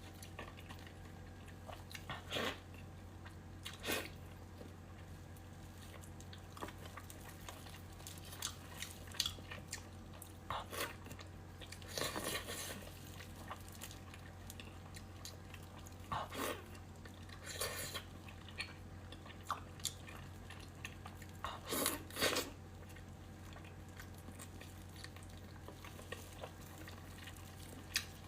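Close-miked eating: a person chewing and biting food, with a louder mouth sound every few seconds over a steady low hum.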